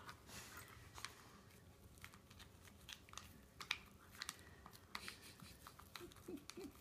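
Labradoodle puppy chewing and gnawing on a toothbrush: faint, irregular little clicks and crunches of teeth on plastic.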